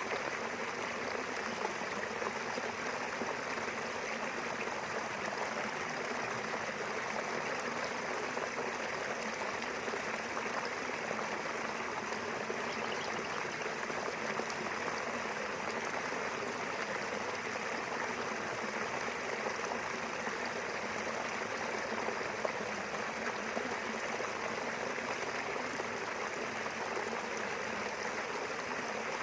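A small river flowing steadily, with an even rushing and babbling of running water.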